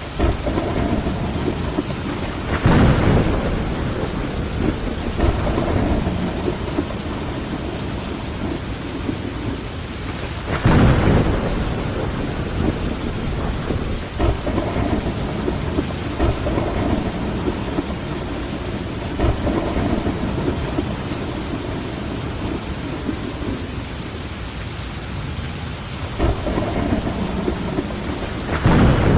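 Steady heavy rain with rumbles of thunder rolling in and fading, the strongest about three seconds in, about eleven seconds in and again near the end.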